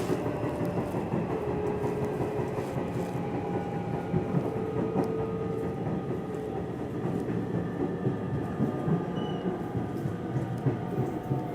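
Nishitetsu Tenjin Ōmuta Line electric train running on the rails: a steady rumble of wheels on track with scattered clicks at rail joints and faint whining tones that slowly shift in pitch.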